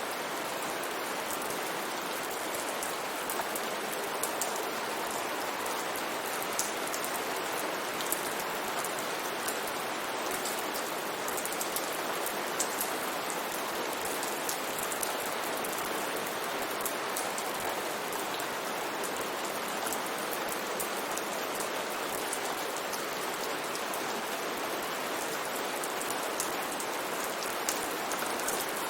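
Steady rain falling, an even hiss of rain with scattered individual drop ticks.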